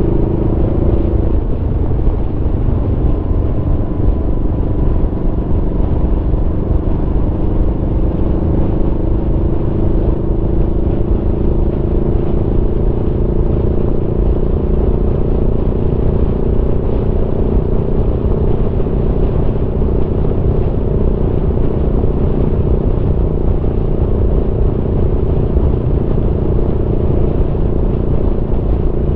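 Aprilia Tuono V4's V4 engine running under steady load while riding, its note dropping about a second in and then climbing slowly, over a steady low rumble.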